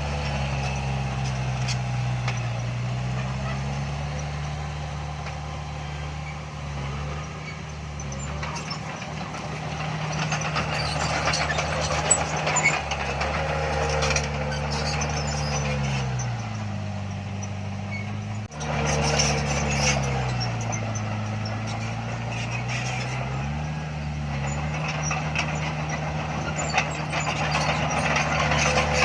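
Diesel engine of heavy earthmoving equipment running steadily, its pitch sagging twice as it comes under load and then recovering, with metallic clanking and squeaking over it.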